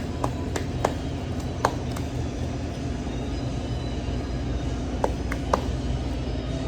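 Steady low background rumble, with a handful of short sharp clicks or taps, several in the first two seconds and a few more about five seconds in.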